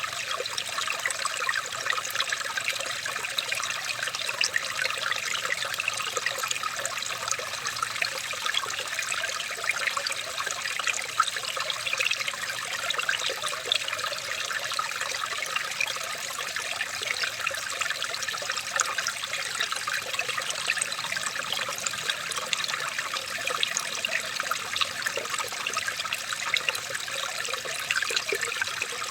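Running water trickling steadily, a small stream's continuous babble with fine splashing detail and no pauses.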